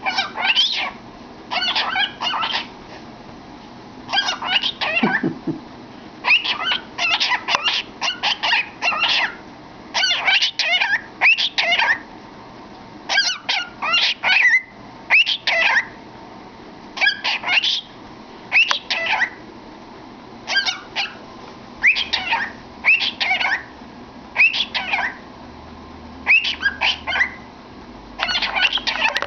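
Cockatiel singing and chattering with its head in a cardboard tube: a string of short warbling whistle phrases that rise and fall quickly in pitch, each about a second long, with brief pauses in between.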